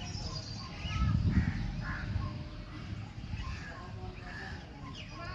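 Several birds calling, with many short calls and chirps overlapping. A low rumble rises about a second in and is the loudest part.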